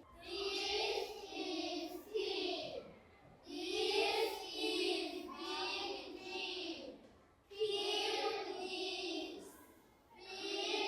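A class of young children reading aloud together in unison, a sing-song chorus in three phrases with short pauses between them.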